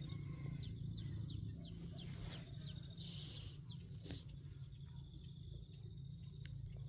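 A bird calling outdoors: a quick run of short, high, falling chirps, about three or four a second, for roughly two seconds, over a steady low rumble. A single sharp click about four seconds in.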